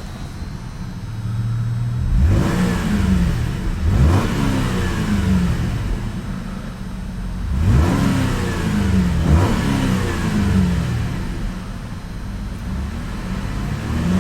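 2008 Chevrolet Malibu LTZ's 3.6-litre dual-overhead-cam V6 idling and being revved in quick throttle blips, about four times in two pairs, the pitch shooting up and falling back to idle each time; a smooth engine note.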